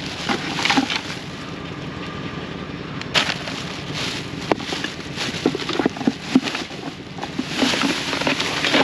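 Rustling and clattering as a container of discarded household items is rummaged through by hand, with scattered sharp clicks and knocks and a sharp click about three seconds in.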